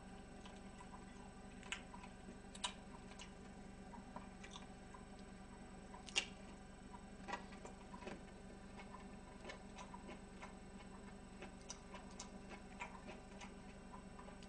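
Faint eating sounds: a person chewing a mouthful of food, with scattered soft clicks and a few sharper clicks, over a low steady hum.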